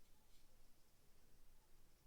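Near silence: faint room tone, with one faint short tick about a third of a second in.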